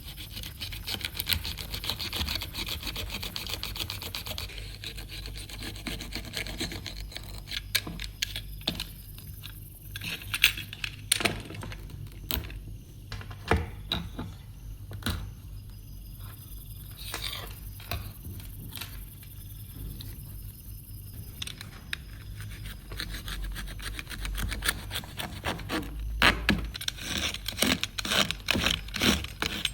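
Hand work on a workbench: scraping and rubbing, with scattered sharp clicks and knocks of tools and metal being handled. There is a longer scraping stretch in the first few seconds and another near the end.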